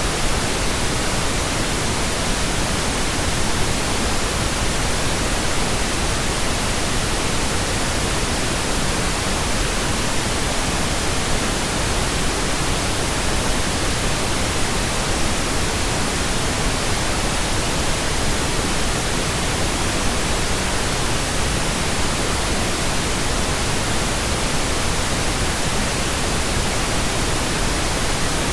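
Steady, continuous pink noise generated in software: an even hiss across all frequencies, unchanging throughout.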